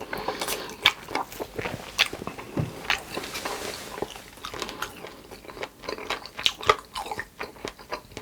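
Close-miked biting and chewing of crunchy fried food, with irregular crisp crunches and wet mouth sounds.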